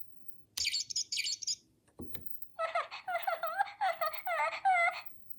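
High, bird-like chirps: two quick looping trills about a second in, then a run of squeaky warbling calls that bend up and down in pitch for a couple of seconds, with a short thump between them.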